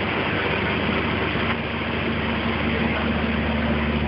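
Car audio subwoofers playing a steady deep bass, loud enough to overload the recording into a dense rumbling haze; the low end gets stronger about three seconds in.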